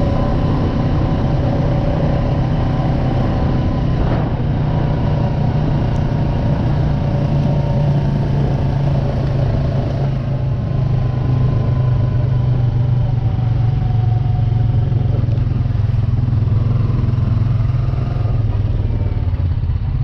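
Small off-road vehicle's engine running steadily under way, its pitch drifting slowly with small changes in speed.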